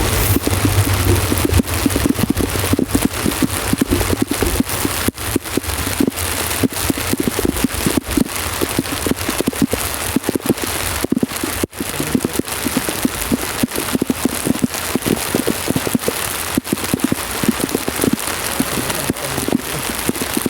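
Rain falling steadily, with many irregular drops striking a surface close to the microphone.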